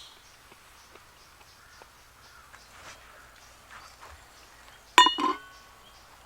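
Two sharp metallic clinks about five seconds in, like camp cookware knocking together, ringing briefly. Faint bird calls sit over a quiet outdoor background.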